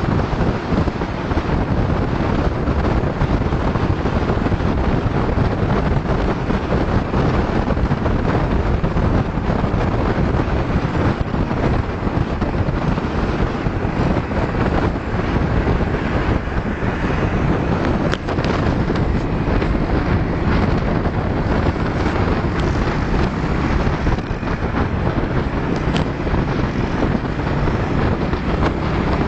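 Motor scooters running on the road under steady wind buffeting on the microphone: a loud, unbroken rushing drone.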